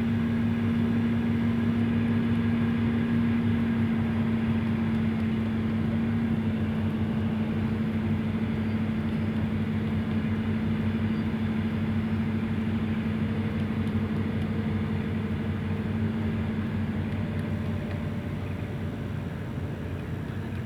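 Diesel engine of a hydraulic excavator running steadily, a constant drone, growing a little quieter near the end.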